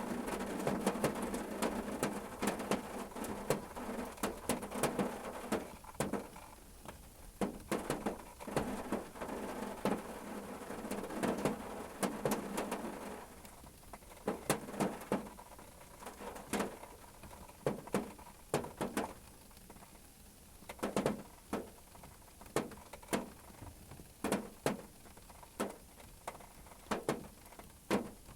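Rain pattering on a car roof as heard from inside the car. The dense patter thins out about halfway through, leaving separate heavy drops landing about once a second.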